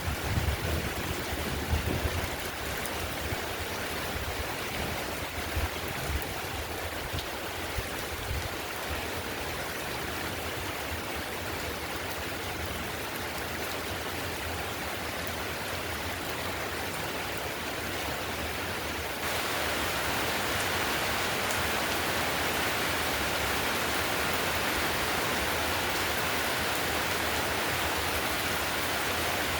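Heavy rain falling on a tiled roof: a steady, even hiss of drops, with a few dull low thumps in the first couple of seconds. About two-thirds of the way in, the rain suddenly gets louder and brighter and stays that way.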